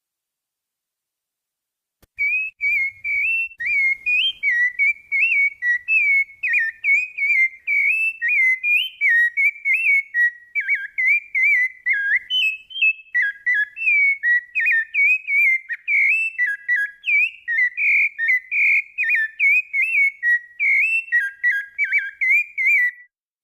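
A songbird singing one long unbroken song of quick, varied whistled notes, starting about two seconds in and stopping just before the end.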